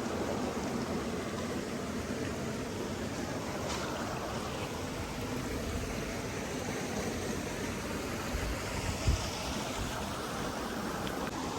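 Water of a stream running steadily, an even rushing noise, with one brief low thump about nine seconds in.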